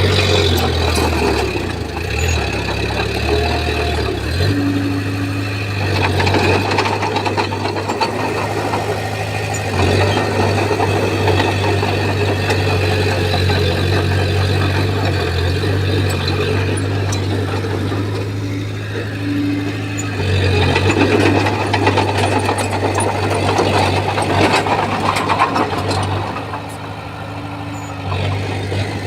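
Bulldozer's diesel engine running under load as it pushes, swelling and easing in level, and dropping back briefly near the end.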